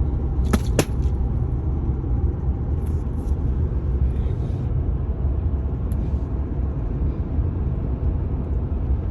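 Steady low rumble of a moving car heard from inside the cabin, with two sharp clicks just over half a second in.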